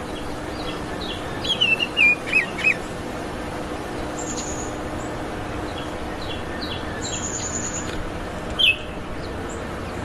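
Baltimore oriole singing: a short phrase of loud, clear whistled notes that slide in pitch about a second in, and one more loud whistled note near the end. Fainter high, thin notes come in between, over a steady background hiss.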